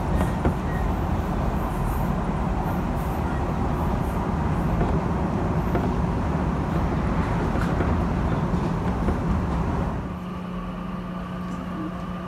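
Electric train running, heard from inside the carriage: a steady rumble of wheels on the track. About ten seconds in the rumble drops and a steady low hum and a faint rising whine come through.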